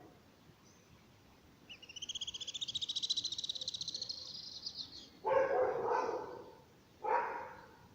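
A small bird's rapid, high-pitched trill lasting about three seconds, then two drawn-out barks from a dog, about a second each, louder than the trill.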